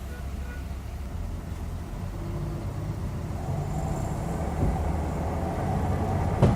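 Hyundai Aerocity 540 bus engine running, building in loudness from about three seconds in as the bus pulls harder, with one sharp thump near the end.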